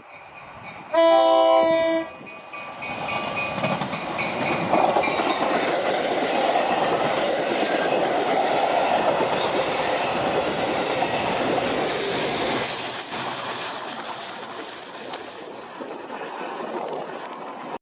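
A locomotive air horn sounds one short chorded blast about a second in. A train then rolls past, its wheels running over the rails, loudest midway and fading near the end.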